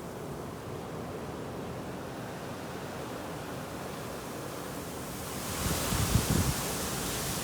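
Snowstorm wind blowing as a steady hiss that grows stronger about five seconds in, with gusts buffeting the microphone as low rumbles near the end.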